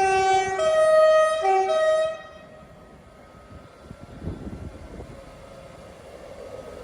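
Class 158 diesel multiple unit's two-tone horn sounding four notes, alternating low and high, for about two seconds. After it the train's running sound goes on much more quietly.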